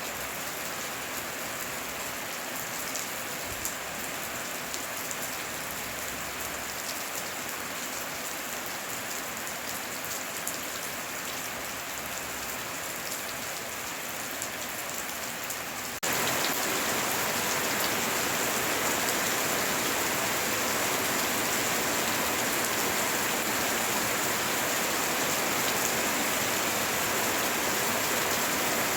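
Steady rain falling with fine scattered drop ticks. About halfway through it cuts abruptly to a louder, denser downpour.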